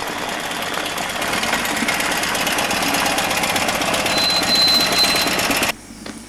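BMW motorcycle engine running, a dense steady rushing sound with a rapid pulse. A thin high whistle sounds briefly about four seconds in, and the sound cuts off abruptly near the end.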